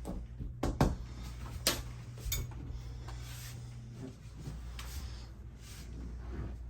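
Sharp clicks and knocks of cabin fittings being handled, such as cabinet doors and latches, bunched in the first two and a half seconds with a few fainter ones later, over a steady low hum.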